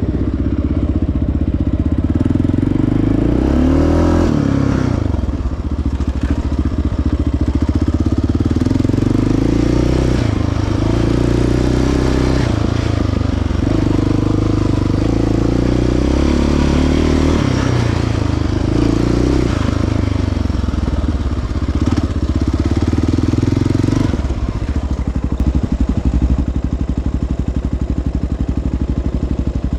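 Single-cylinder four-stroke ATV engine under way on a trail, its pitch rising and falling repeatedly as the throttle is worked, then running steadier for the last several seconds.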